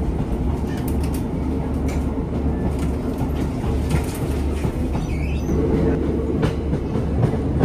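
Diesel passenger train running along the line: a steady low rumble, dotted with irregular clicks of the wheels on the rails.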